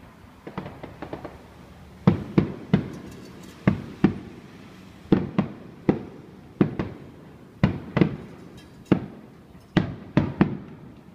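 Fireworks shells bursting overhead in a rapid, irregular series of bangs, each trailing off in a short echo. The bangs are lighter at first and get louder after about two seconds.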